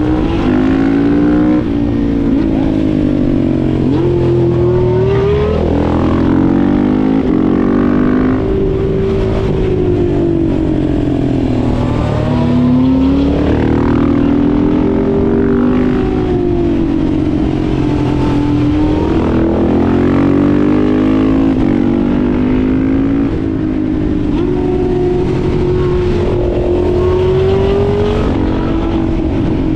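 Motorcycle and Porsche sports car engines revving hard and easing off in turn, several engine notes overlapping, their pitch rising and falling every few seconds through a run of bends. The motorcycle is a single-cylinder 701.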